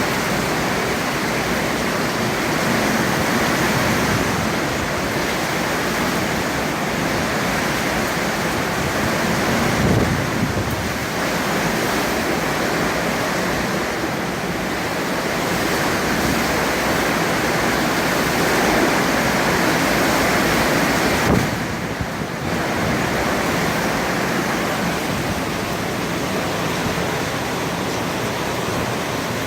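Hurricane Michael's winds blowing hard as a constant loud rush, swelling and easing in gusts, with stronger surges about ten seconds in and just past twenty seconds, then a brief lull.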